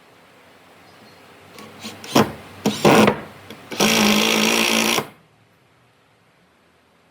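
A small electric power tool run in short bursts: two brief spurts about two seconds in, then a steady, even-pitched run of just over a second that cuts off sharply.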